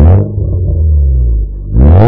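Volkswagen Polo 6N 1.4 16v four-cylinder engine through an aftermarket Burg exhaust, revved in short blips: a rev peaks at the start and drops back to a steady idle, then a second rev climbs sharply near the end.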